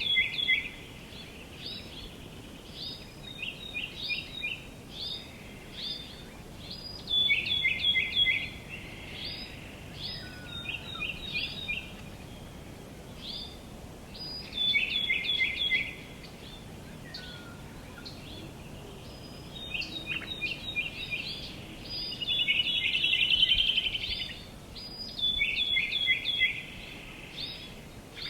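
Songbirds singing outdoors: short phrases of quick notes stepping down in pitch, repeated every second or two, with a faster trill about two-thirds of the way through, over a steady soft background hiss.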